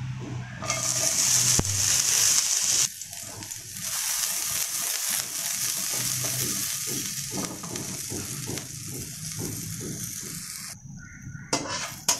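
Chopped garlic and chillies sizzling in a hot wok, the sizzle loudest in the first few seconds, with a spatula scraping and stirring them.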